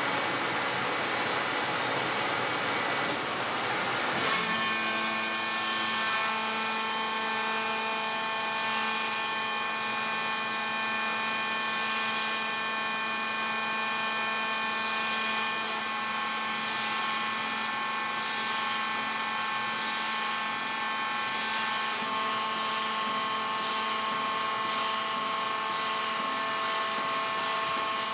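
Shock absorber test machine running: a rushing noise, then a steady high whine from its drive that sets in about four seconds in and holds level.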